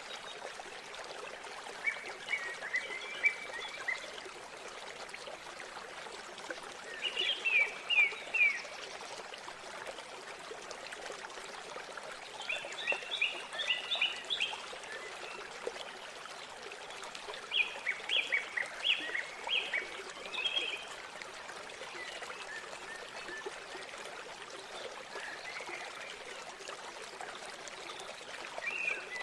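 River water running with a steady rush. Over it, a bird repeats short phrases of quick high notes, one burst every five seconds or so.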